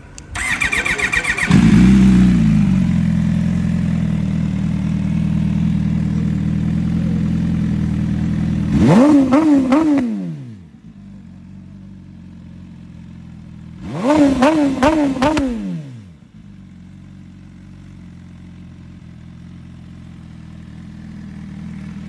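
MV Agusta Brutale 1000 RS's inline-four engine on an Emil custom exhaust. The starter cranks briefly, then the engine catches with a rev flare and settles to a steady idle. Two bursts of throttle blips about five seconds apart follow, each a few quick revs rising and falling, and the idle is quieter after each.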